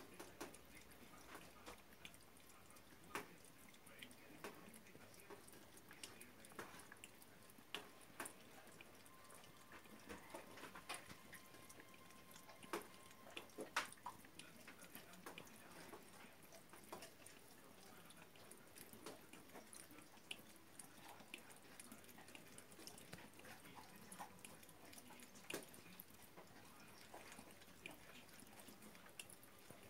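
Faint, irregular wet clicks and drips of a cat lapping water, with one louder click about halfway through.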